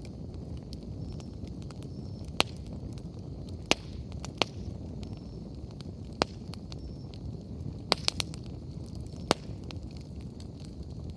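Wood campfire burning with a steady low rush and sharp, irregular crackles and pops, about eight in all, with a quick cluster a little past halfway.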